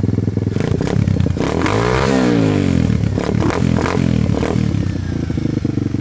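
Tao Tao 140cc dirt bike's single-cylinder four-stroke engine, warmed up and being broken in, idling and then revved by hand: one sharp rev that rises and falls about two seconds in, a few shorter throttle blips after it, then back to a steady idle.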